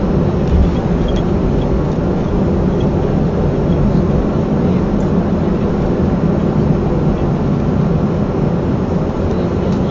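Steady low rumble inside the cabin of a Boeing 737-300 on the ground after landing, its CFM56 engines still running.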